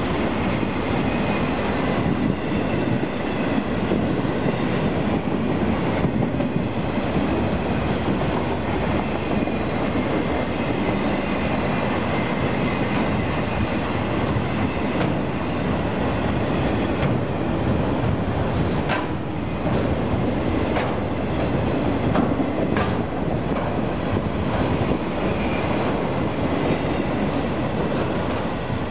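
Union Pacific freight train of enclosed autorack cars rolling past, a steady rumble of steel wheels on rail with a faint wheel squeal and a few sharp clicks from the rail joints. The end of the train passes near the end and the noise drops off.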